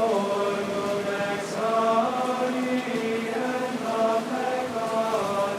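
Latin plainchant sung in unison during the Mass, long held notes moving up and down in steps.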